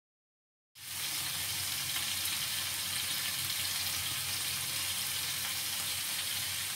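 Chicken and vegetable skewers sizzling steadily in hot oil in a frying pan; the sizzle cuts in suddenly about a second in, after dead silence.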